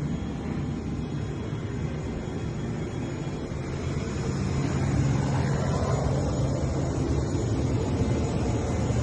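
Jet aircraft engine noise: a steady rumble that grows louder about four seconds in.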